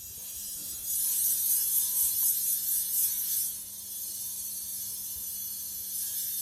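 Flat glass canes driven by attached sound exciters, giving out a high, scratchy hiss that swells about a second in, flutters for a few seconds, then carries on steadier and a little quieter. A faint steady low hum lies underneath.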